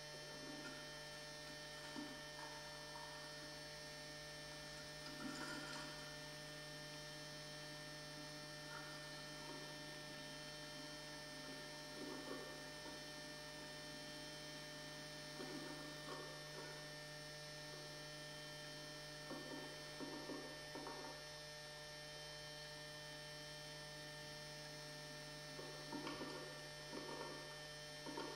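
Steady electrical mains hum made up of many steady tones, with short faint scuffling sounds now and then, in small clusters.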